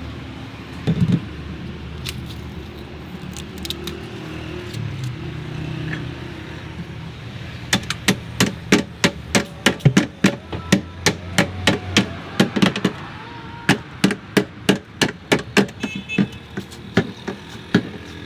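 Hammer blows in a rapid, even series, about three a second, beginning about eight seconds in, over a steady low background hum.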